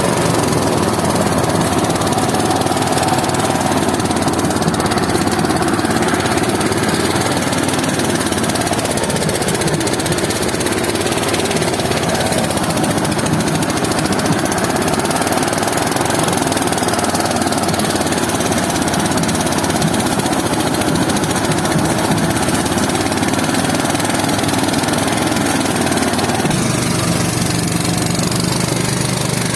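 Small engine of a rice-harvest machine running steadily under load; a few seconds before the end its note changes to a deeper, steadier hum.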